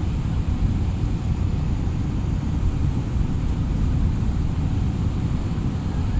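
Steady low rumble of an aeroplane in flight as it comes in to land: engine and airflow noise, with no sudden changes.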